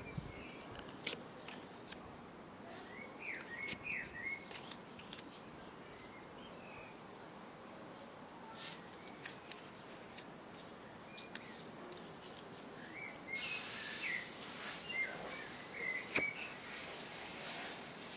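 Small birds chirping in quick twittering phrases, in two bouts, with scattered sharp clicks throughout. A steady hiss grows louder about thirteen seconds in.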